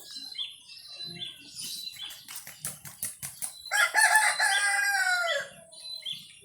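Rooster crowing once, a single long call about four seconds in that falls in pitch at its end. Small birds chirp around it, with a quick run of rapid chirps just before the crow.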